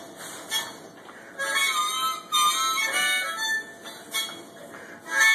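Blues harp (diatonic harmonica) played solo: short phrases of held and wavering notes separated by brief pauses, the busiest playing in the middle.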